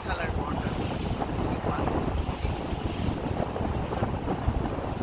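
Wind buffeting the microphone aboard a boat under way at sea, over a steady rush of water.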